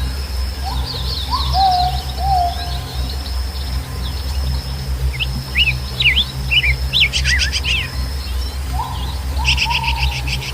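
Several birds chirping and calling over one another: quick rising and falling chirps, lower whistled notes near the start and near the end, and two fast rattling trills in the second half. A steady high-pitched whine and a steady low rumble run underneath.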